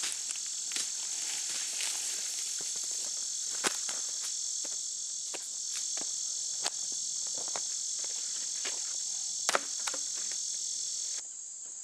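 Steady chorus of crickets and other insects, with scattered sharp clicks and snaps over it. The chorus cuts off abruptly near the end.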